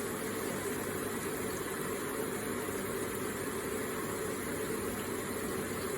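Electric water feature running: a steady, gentle flow of falling and splashing water, even throughout.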